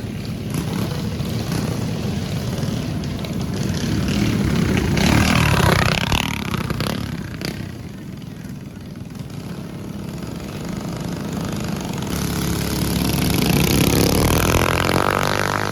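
Mini bike engines running at race speed. The sound swells loudly about a third of the way in and again near the end as bikes pass close, and fades in between.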